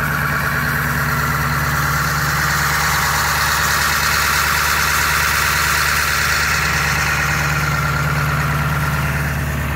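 Ford 7.3 L Power Stroke V8 turbodiesel in an E-350 van idling steadily with a fine, even clatter, still warming up after a cold start at −8 °C.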